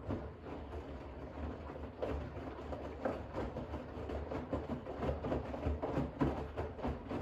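Bosch front-loading washing machine drum starting to turn during a rinse, with water and wet towels sloshing and tumbling in irregular swells and soft thuds over a low motor hum.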